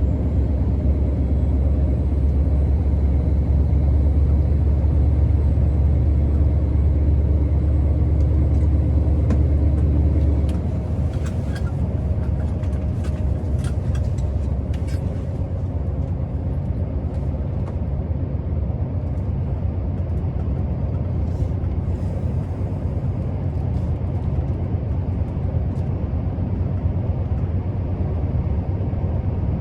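Scania R650's V8 diesel engine running steadily under load as the truck drives. About ten seconds in, the low drone drops and gets quieter, as when the throttle is eased, and a few light clicks follow.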